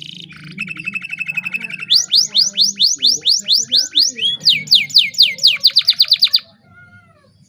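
Domestic canary singing vigorously: a fast trill of short notes, then a loud run of repeated downward-sweeping whistles that quickens near the end and breaks off about six seconds in.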